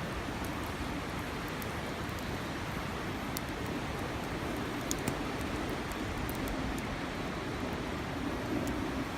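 Steady rushing of river water, with a few faint, sharp clicks scattered through it.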